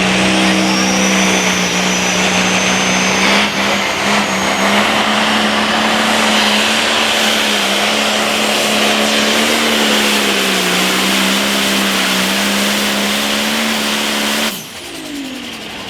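Turbo-diesel Limited Pro Stock pulling tractor's engine running flat out under load during a pull, with a steady, slightly wavering pitch and a high turbo whine in the first few seconds. The engine note cuts off suddenly near the end as the throttle is shut at the end of the pass, then winds down with a falling tone.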